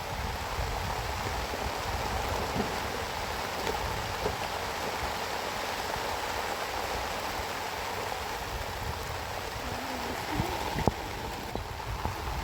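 Steady heavy rain falling, an even hiss of water with a single sharp click near the end.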